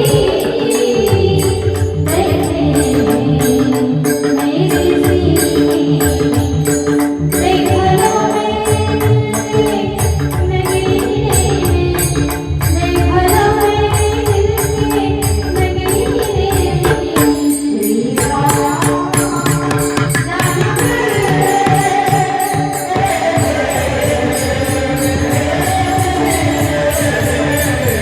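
A song: a voice singing a melody over percussion with a steady beat.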